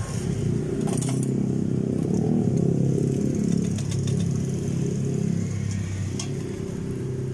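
An engine running steadily, with a few sharp metallic clinks about a second in and again near six seconds.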